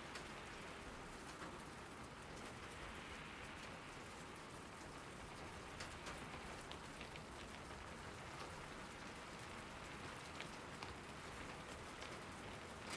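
Steady rain falling, with a continuous hiss and many small scattered drop ticks.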